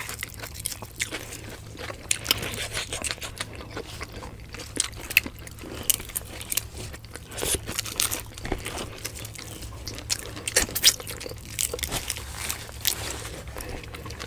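Close-miked chewing and biting, with frequent irregular crunches, as grilled shrimp, fish and rice are eaten by hand.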